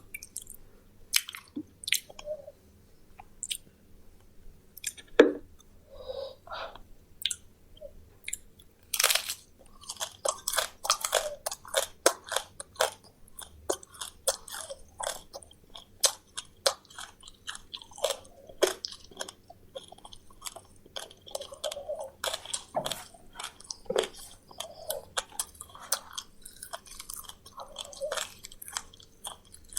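Close-miked chewing of crunchy fried meat with small bones: irregular sharp crunches mixed with softer wet chewing, coming thicker from about a third of the way in.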